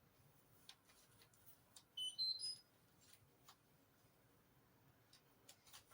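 Washing machine control panel beeping: a quick run of short, high electronic tones at several pitches about two seconds in, as the wash is set going. Faint clicks before and after.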